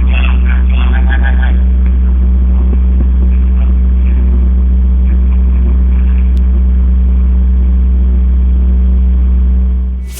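Loud, steady low mechanical hum, like a motor or engine running, with faint voices in the first second or two. It fades out near the end.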